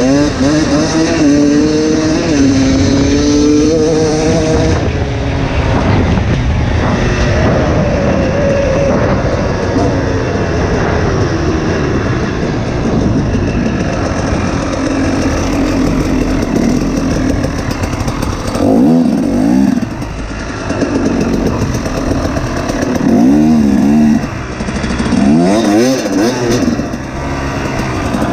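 Two-stroke dirt bike engine at full throttle, its pitch climbing through the revs again and again, with several sharp drops in the second half where the throttle is chopped or a gear is changed.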